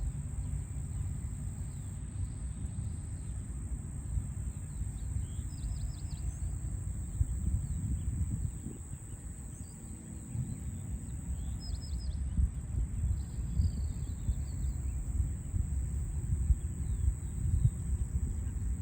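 A bird chirping in short clusters of quick high notes, five or so times, over a steady low rumble of city traffic.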